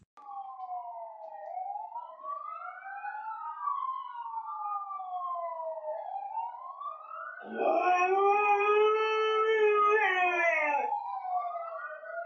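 A siren wailing, its pitch sweeping slowly up and down with two tones crossing each other. About seven and a half seconds in, a dog howls along with it for some three seconds, the loudest part of the sound.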